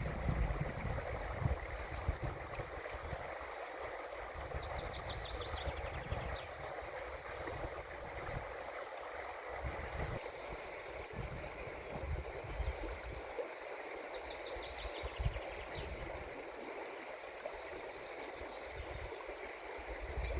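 Steady outdoor rushing noise, with gusts of wind rumbling on the microphone. A short, faint, rapid bird trill comes about a quarter of the way in and again about three-quarters of the way through.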